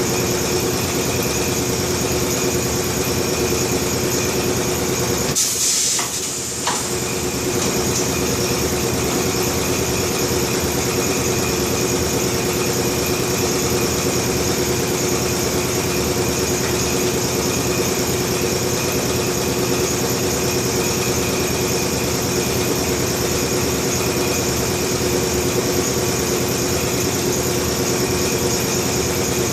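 Steady machine hum with unchanging tones, like a running motor, with a short break and a click about six seconds in.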